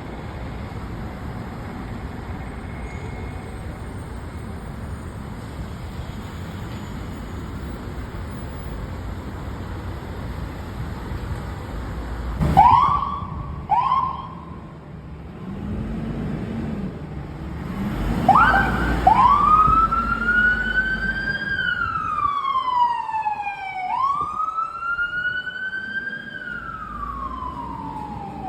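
Fire apparatus siren: steady vehicle rumble, then two short whoops about twelve seconds in, which are the loudest moment. From about eighteen seconds the siren wails, rising and falling slowly, with a second, faster-falling sweep overlapping partway through.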